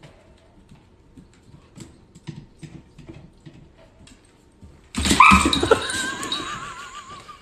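Faint scattered taps, then about five seconds in an animal's loud drawn-out call that wavers in pitch and fades toward the end.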